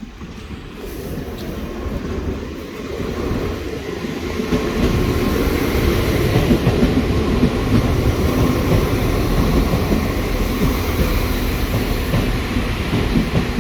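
Diesel passenger train passing by on the railway line. Its running noise builds over the first few seconds, then holds loud and steady.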